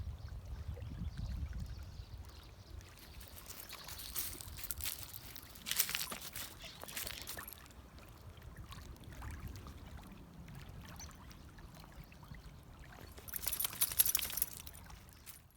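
River water trickling and splashing, with louder bursts of splashing about four, six and fourteen seconds in. A low rumble fades out over the first two seconds.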